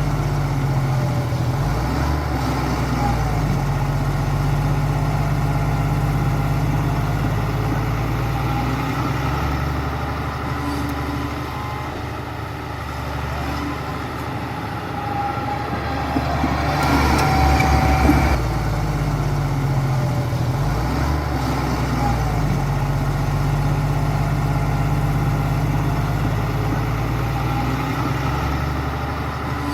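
Heavy diesel construction machinery running, its engine note shifting with load and loudest about seventeen to eighteen seconds in.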